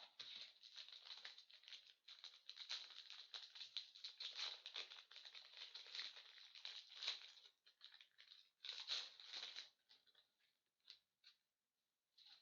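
Close crinkling and rustling of a trading card pack's wrapper and sleeves as the cards are handled. It thins out to a few light ticks and rustles after about ten seconds.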